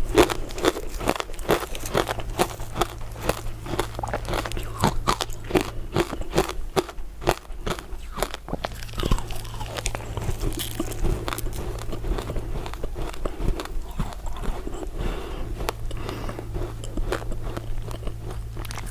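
Close-up crunching and chewing of a brittle, translucent crystal ice dessert: rapid sharp crunches that thin out about halfway through into slower chewing with fewer cracks.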